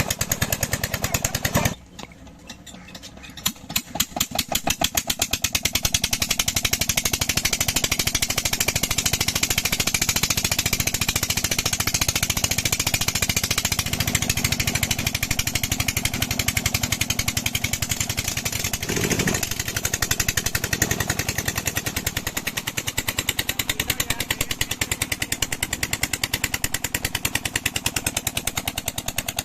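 Old Petter diesel engine driving a tube well pump, running with a fast, regular beat. About two seconds in, the sound drops sharply; the beats then return slowly and quicken over the next few seconds until the engine runs steadily again.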